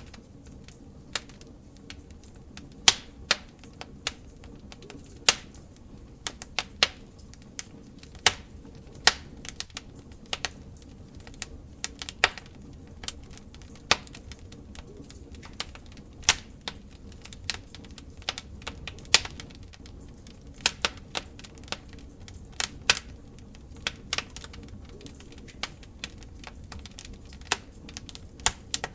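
Open fire crackling: irregular sharp pops and snaps, several a second, over a soft steady low rumble.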